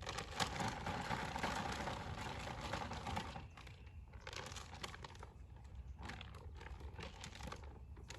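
Plastic bag crinkling and rustling, rubbed or waved as sacking-out for a young mustang: one long stretch for about three and a half seconds, then shorter bouts of rustling.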